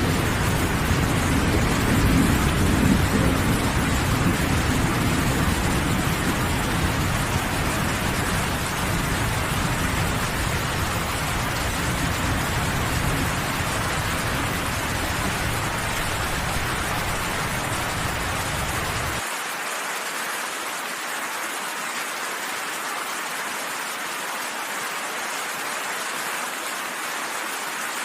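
Steady heavy rain with a deep rolling thunder rumble underneath, strongest about two to three seconds in. About two-thirds of the way through the low rumble cuts off abruptly, leaving only the hiss of the rain.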